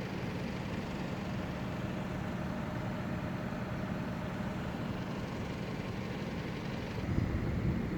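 Diesel engine running steadily with a low hum; about seven seconds in, a louder rumble builds as a train runs into the level crossing.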